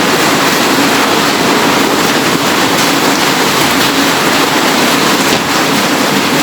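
Steady, loud rushing noise with no distinct events, like heavy rain, a fan or running water.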